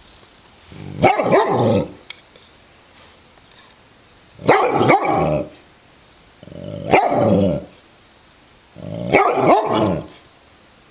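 Yellow Labrador retriever barking in four bouts a couple of seconds apart, each bout a quick double bark.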